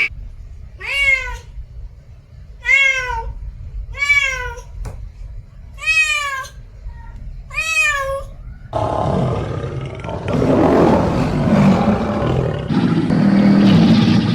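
Domestic cat meowing five times, about two seconds apart. From about nine seconds in, a longer, harsher, noisy animal call follows.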